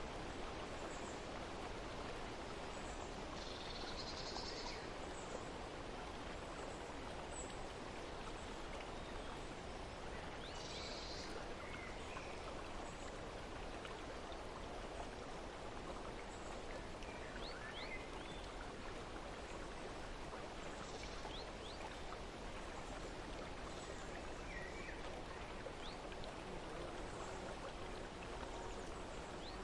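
Steady rushing of flowing water, with a few faint bird chirps over it now and then.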